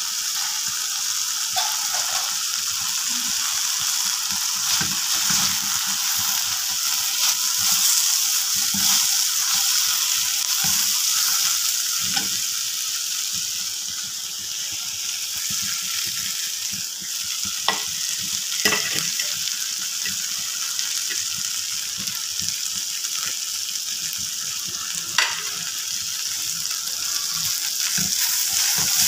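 Diced beetroot sizzling as it is stir-fried in a metal kadai, a spatula stirring and scraping through it, with a few sharp clicks of the spatula against the pan.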